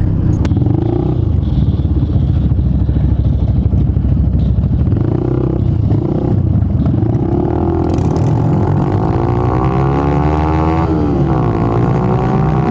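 Motorcycle engine running under way, pulling harder in the second half: its pitch climbs steadily, drops sharply about eleven seconds in, then climbs again, like a gear change under acceleration.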